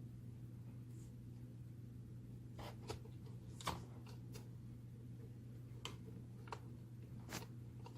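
Scattered light clicks and taps of small parts being handled, about seven in all from a few seconds in onward, over a steady low hum.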